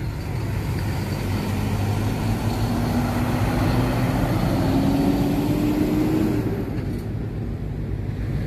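A motor vehicle's engine rising slowly in pitch as it accelerates over about five seconds, over a steady low road rumble, then falling away near the end.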